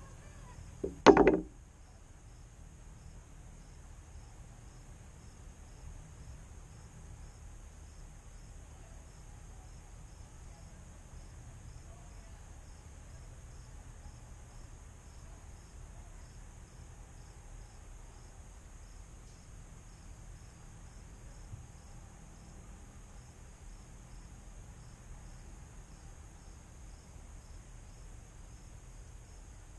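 Insects chirping in a steady high-pitched pulsing chorus, with one loud short knock about a second in.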